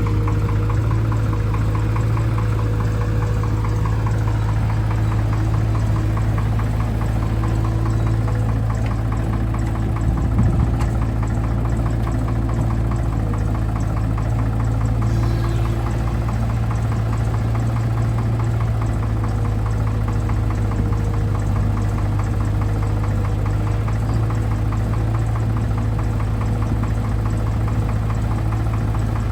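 Heavy vehicle diesel engine running steadily at a constant speed, with a fast, even ticking over its hum.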